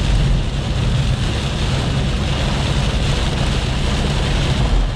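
A car driving on a flooded road in heavy rain: a steady hiss of rain and tyre spray over a constant low road and engine rumble.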